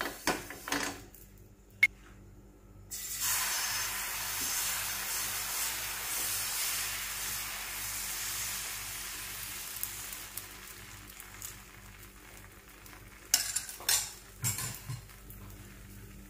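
Dosa batter sizzling on a hot non-stick tawa as it is ladled on and spread. The hiss comes in suddenly about three seconds in and slowly fades. A few light knocks of the ladle against the pan come near the end.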